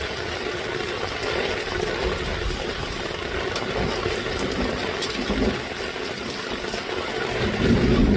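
Heavy storm rain falling steadily, with low rumbles about five seconds in and again, louder, near the end.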